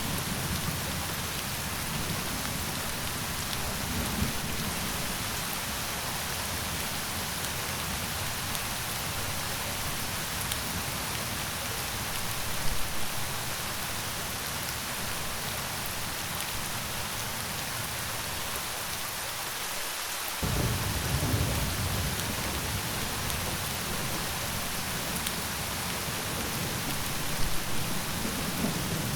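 Steady rain falling as a continuous hiss, with low rumbles of thunder swelling now and then, a louder one about 12 seconds in and another starting suddenly about 20 seconds in.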